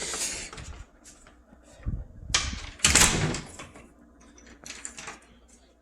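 Handling noise: a few short rustling, scraping sounds, the loudest about three seconds in.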